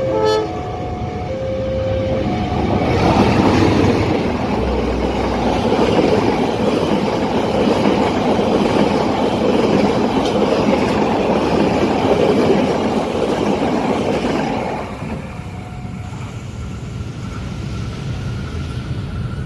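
A level-crossing warning alarm sounds two alternating tones. About three seconds in, a long train starts passing the crossing, its wheels and cars running loudly for about twelve seconds. The noise then drops away.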